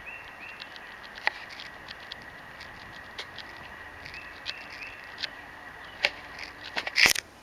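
Small birds chirping in short repeated calls over a faint steady high whine, with scattered sharp clicks and taps and a loud cluster of clicks near the end.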